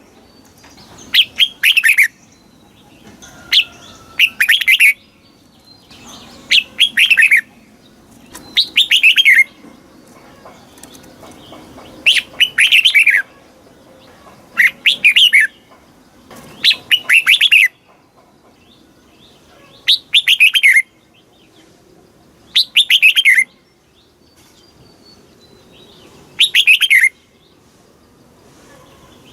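Red-whiskered bulbul singing: short whistled phrases, each about a second long and falling in pitch, repeated every two to three seconds, about ten in all.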